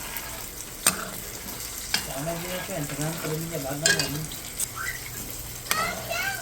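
Flour-battered fish frying in hot oil, sizzling steadily, with a few sharp clicks of a utensil against the pan.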